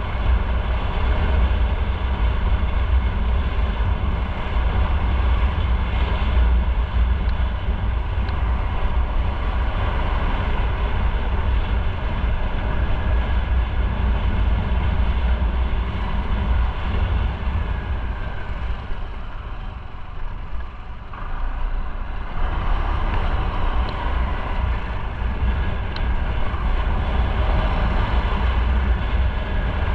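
Motorcycle riding on the road: steady engine and road noise with a deep rumble, easing off briefly about two-thirds of the way through and then picking up again.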